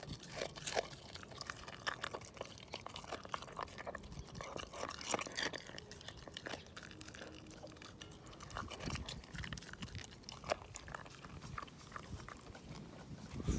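Shiba Inu chewing raw chicken wing tips, the bones crunching and cracking between its teeth in irregular bites, with wet chewing between them.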